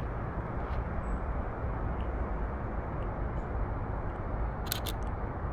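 Steady low rumbling outdoor noise, with a camera shutter firing once near the end as a quick double click.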